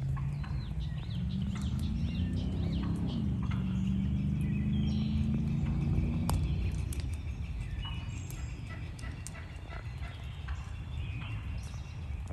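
Spring woods at dawn with songbirds singing and a wild turkey gobbling. The loudest sound is a low drone that climbs in pitch, dips briefly about three seconds in, climbs again and fades out after about six seconds.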